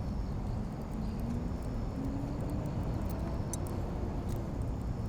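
Campfire crackling with scattered small sharp pops over a steady low rumble.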